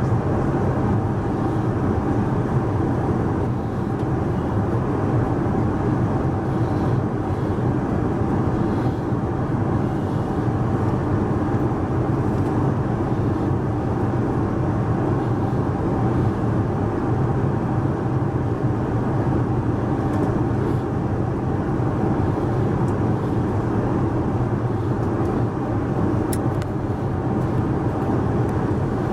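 Steady cabin noise of an Airbus A380 in cruise: a constant rush of airflow and engine drone, with a faint steady hum.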